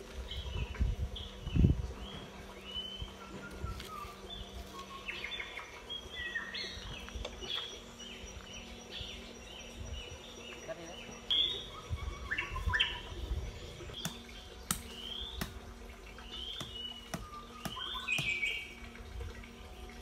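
Wild birds chirping and calling, many short whistled notes, some gliding up or down. A dull low thump about two seconds in and a few softer ones later.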